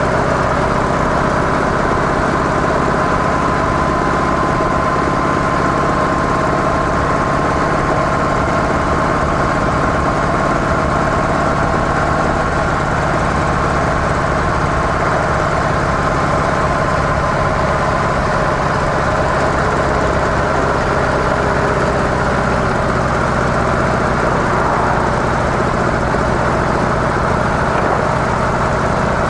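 Harley-Davidson CVO Softail Deluxe's V-twin engine with its stock mufflers, running steadily with no sudden changes.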